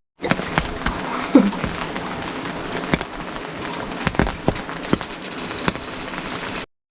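Steady rain with many sharp drops striking close by. A brief downward-sliding tone sounds about a second and a half in.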